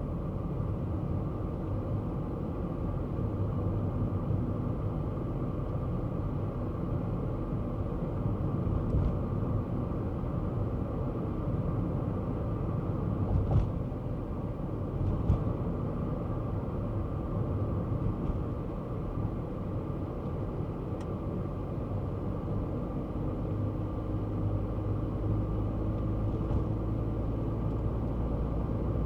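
Kei car driving at steady speed: a continuous low engine and road rumble, with a few faint ticks scattered through it.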